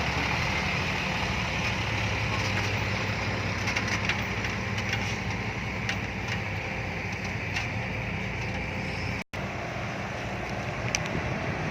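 Six-wheel dump truck's diesel engine running steadily, with a brief cut-out of all sound about nine seconds in.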